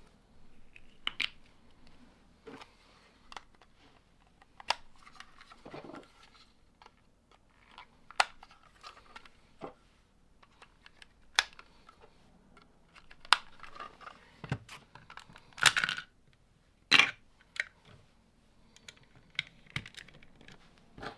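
Plastic Lego bricks being handled and pressed together: irregular sharp clicks and short rattles, with a few longer rustling bursts about three quarters of the way through.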